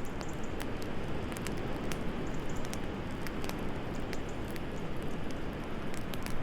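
Wood fire crackling in a fireplace, with sharp irregular pops several times a second, over a steady low rush of wind.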